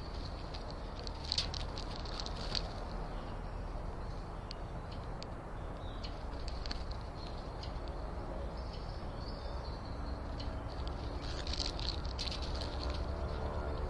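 Small birds giving short, high chirps in two bursts, about a second and a half in and again near the end, over a steady low rumble outdoors. A faint hum joins in during the second half.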